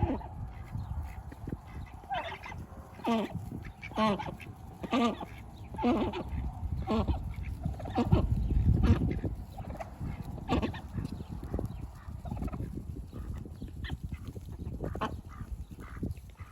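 Domestic ducks quacking, a string of short honking calls about once a second, thinning out later, with a low rumble underneath that is loudest about halfway through.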